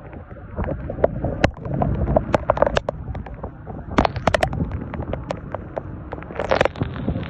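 Heavy rain pouring down, with a low rumble of wind on the microphone and many sharp taps of drops striking close by, coming in thicker clusters about four and six and a half seconds in.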